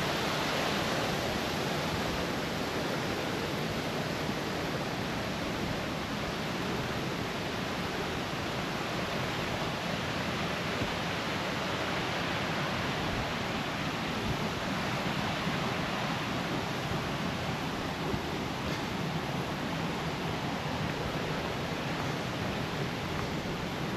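Steady rushing of creek water, an even wash of noise that holds unchanged throughout.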